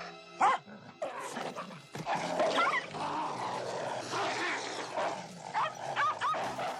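A small dog yelping and barking in a scuffle, short high cries that bend up and down, the loudest about half a second in and a quick cluster near the end, over a rough noisy commotion.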